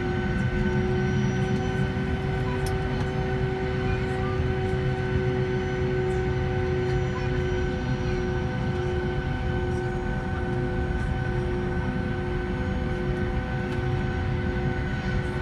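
Steady cabin noise inside a Boeing 757 airliner before takeoff: a low rumble with a steady whine of several held tones.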